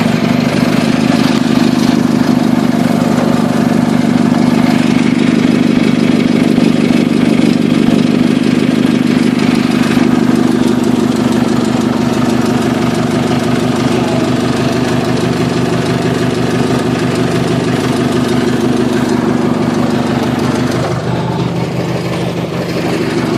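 Old Cub Cadet garden tractor engine running steadily under load as the tractor creeps up in first gear, dipping slightly in level about three seconds before the end.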